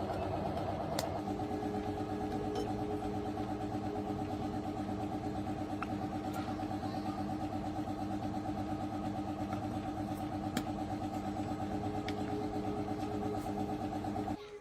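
Tractor's diesel engine running steadily at a constant speed, with a few sharp clicks; its tone shifts slightly about a second in, and the sound cuts off abruptly near the end.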